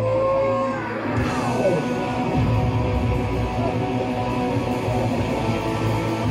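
A rock band playing live with electric guitars and drums. A held note gives way about a second in to a downward slide as the full band comes in loud.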